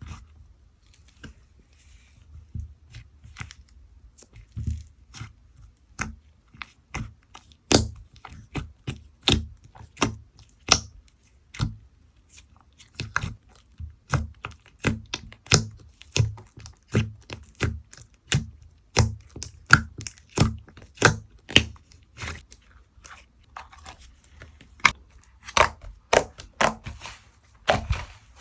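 Slime being pressed and worked by hand, giving a run of sharp clicking pops, about two a second, fainter at first and louder from a few seconds in.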